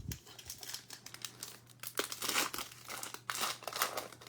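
Plastic-foil trading card pack wrapper being crinkled and torn open by hand, a dense crackling that comes in a few louder handfuls, with a light knock at the start.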